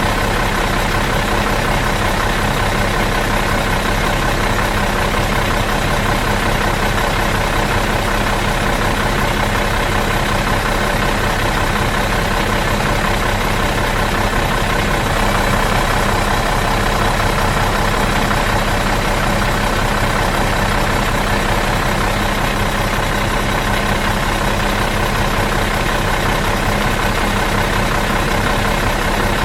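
Bus engine idling out of gear, running steadily with no change in pitch or level.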